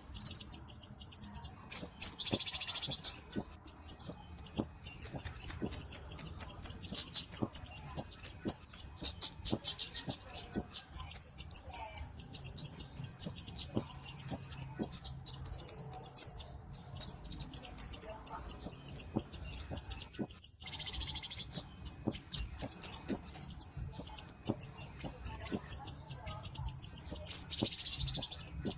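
Flowerpecker (kemade, cabe-cabean) calling: long runs of rapid, very high thin chips, several a second, broken by short pauses and a few harsher notes.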